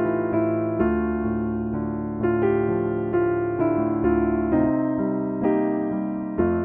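Background music: a slow piano melody, its notes struck about twice a second and each fading out.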